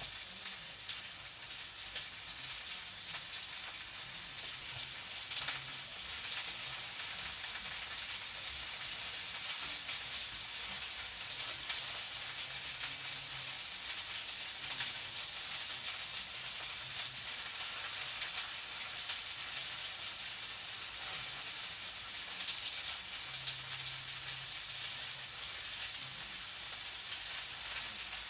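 Food frying in a pan: a steady sizzle with fine crackles throughout.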